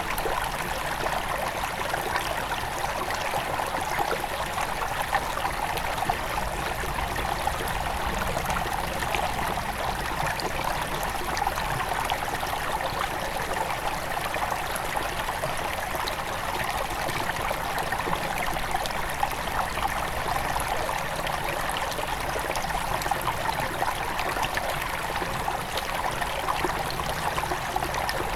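Shallow forest river at its headwaters, flowing and trickling steadily over stones, with a continuous bubbling rush and no change in level.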